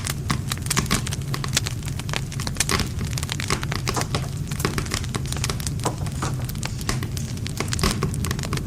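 Wood fire burning, with dense, irregular crackles and pops over a steady low rumble of flames.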